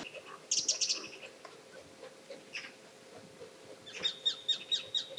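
Wild birds calling: a quick burst of high chirps, a single call midway, then a rapid run of about eight clear, high notes near the end.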